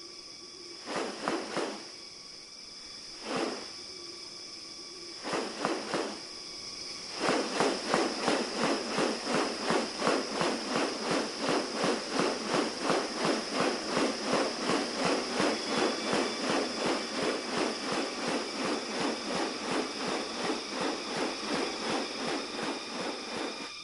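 Rainforest insect chorus, a steady high-pitched drone of several held tones. Over it come a few short rasping bursts, then from about seven seconds in a fast, even rasping pulse of about three beats a second.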